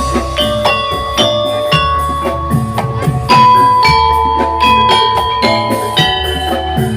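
Javanese gamelan music for a barong/jathilan troupe, played over a sound system: struck metallophones ringing in a quick, even rhythm with drums, and a long held high note through the middle.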